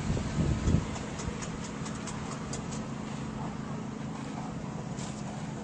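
A 2009 Chevrolet Silverado 1500's 5.3-litre V8 idling steadily, a low even hum, with a few faint light ticks in the first few seconds.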